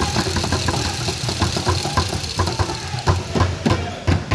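Indoor game noise: a steady din with rapid, irregular knocks and short squeaks from play on the court.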